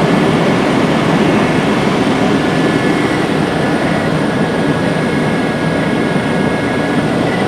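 Helicopter in flight heard from inside the cabin: a loud, steady rush of engine and rotor noise with a thin high whine running over it.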